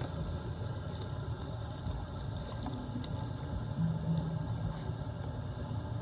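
Floodwater draining into a cleared street storm drain: a steady, low gurgling rush of water.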